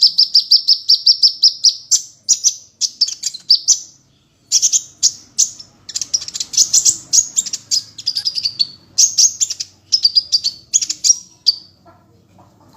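A songbird singing. It opens with a fast run of about ten identical high notes a second, then goes into a string of varied high, chattering and whistled phrases with short pauses, and stops near the end.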